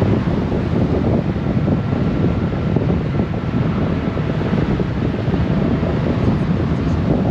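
Wind rushing steadily over the microphone of a Honda Gold Wing motorcycle under way, with engine and road noise underneath.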